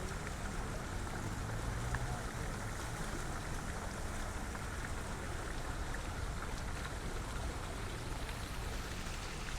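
Steady rushing outdoor background noise with a low rumble underneath, with no distinct events.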